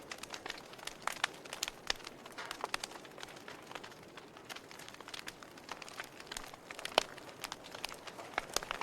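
Campfire crackling: irregular sharp pops and snaps over a soft hiss, with one louder pop about seven seconds in.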